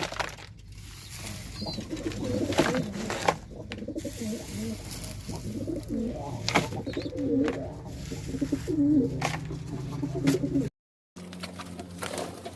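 Domestic pigeons cooing repeatedly, with occasional sharp clicks and knocks in between.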